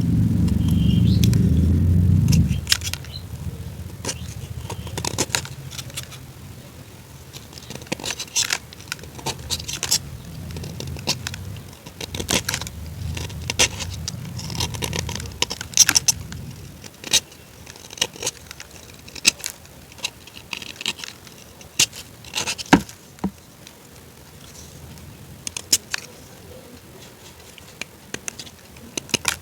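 Irregular sharp crunches and clicks from crunchy food being bitten and chewed, after a low rumble that fades out about two seconds in.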